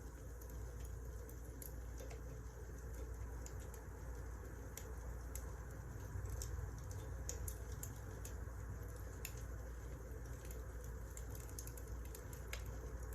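Wood fire crackling: irregular small pops and snaps over a steady low rumble of burning logs.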